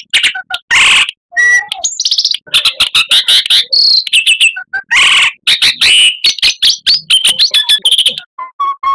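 Oriental magpie-robin singing a loud, rapid, varied song of quick whistles, trills and harsh chattering notes, with barely a pause.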